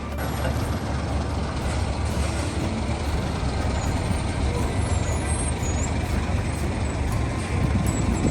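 Heavy diesel truck or machinery engine running with a steady deep rumble, with a voice briefly heard near the end.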